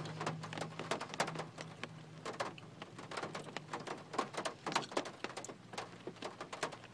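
Close-up chewing of an everything bagel with cream cheese: irregular soft, wet mouth clicks, over a faint steady low hum.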